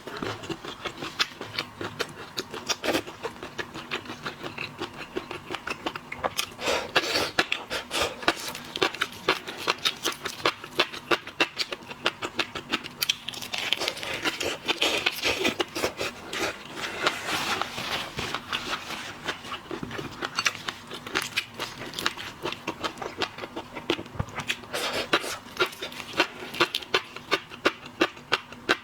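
Close-miked eating of shellfish: a dense run of crackling, crunching and wet chewing clicks, several a second, with louder clusters now and then.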